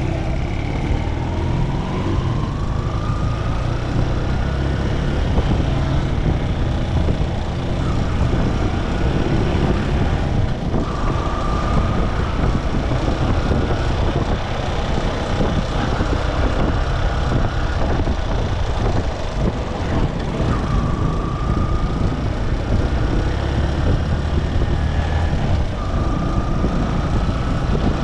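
Motorcycle engine running under way, with steady road and wind rumble and passing traffic. A few short rising whines come and go as the bike pulls away and picks up speed.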